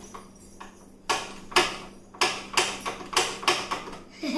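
Cleaver chopping fish on a cutting block: about eight sharp chops, roughly two a second, starting about a second in.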